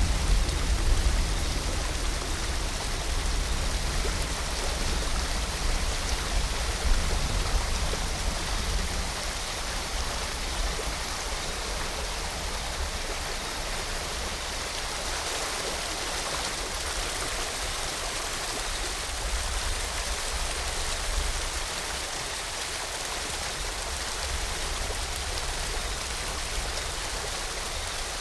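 Steady rushing of a waterfall mixed with falling rain: an even, unbroken hiss. A low rumble underneath is heavier for the first ten seconds or so, then eases.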